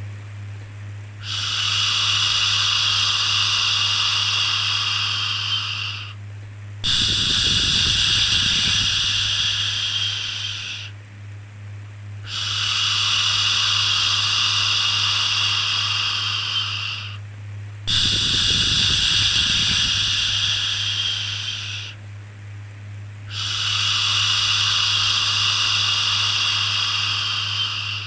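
Shushing 'shhh' sound for soothing a baby, repeated as long hisses of about four to five seconds each with brief pauses between, five in all, over a steady low hum.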